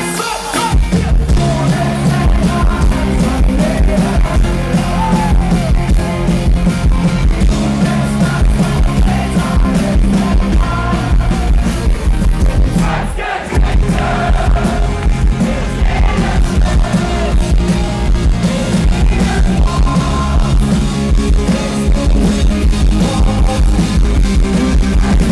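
Live rock band playing at full volume, with sung vocals over a pounding beat; the band stops for a moment about halfway through, then crashes back in.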